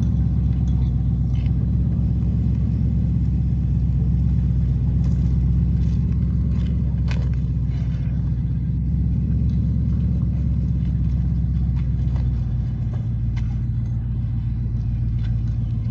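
Car running steadily, a continuous low engine and road rumble with a few faint clicks.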